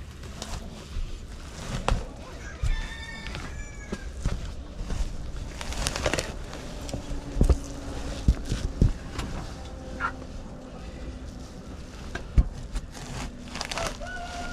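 Chickens calling amid scattered knocks and clatter of farm work: one call about three seconds in and another, falling in pitch, near the end.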